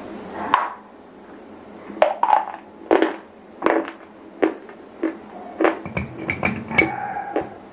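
Close-miked crunching of a chalky white shele stone being bitten and chewed: a run of about ten sharp crunches, roughly one every half second to second.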